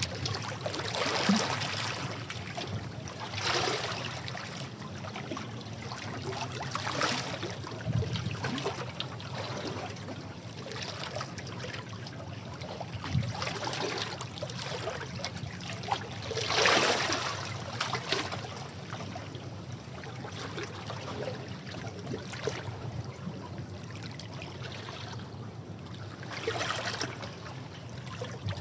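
Sea waves washing against rocks: a continuous wash of water broken by irregular louder splashes, the biggest a little past the middle.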